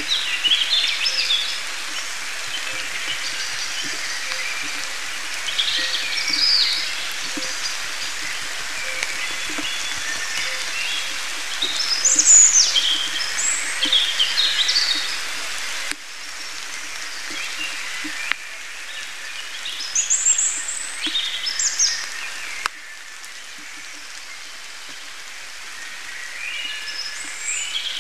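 Steady rain falling in a forest, with songbirds singing short phrases every few seconds over it.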